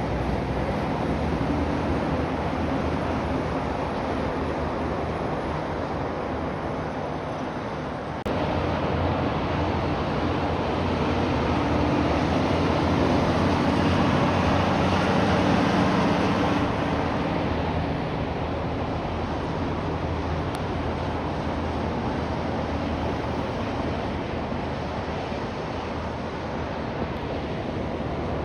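Heavy trucks driving past on the road: a diesel engine drone with tyre and road noise. It swells as a truck passes about 11 to 17 seconds in, then eases off. It breaks abruptly about 8 seconds in.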